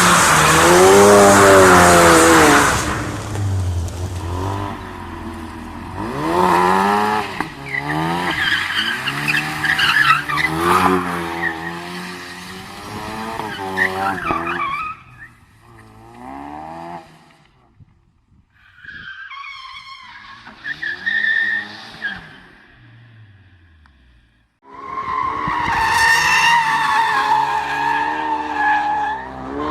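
Ford Focus RS accelerating hard across several short clips. The engine note climbs and drops again and again through the gear changes, and there are stretches of tyre squeal, including a long steady high squeal after a brief silent break near the end.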